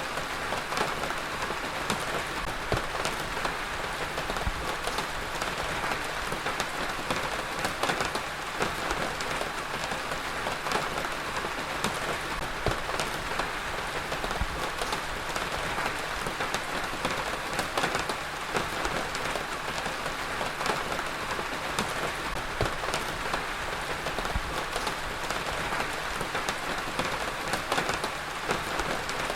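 Heavy rain falling steadily, a dense even hiss of drops with many individual drop hits pattering on a surface.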